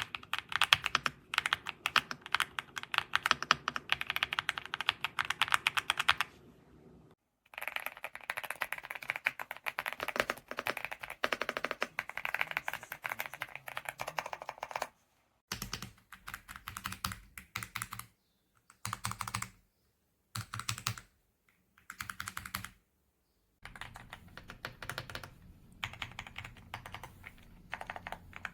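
Typing on an EPOMAKER x Aula F99 gasket-mount mechanical keyboard with Graywood V3 switches: rapid keystrokes in long runs, breaking up after the middle into shorter bursts with short pauses, the last run softer.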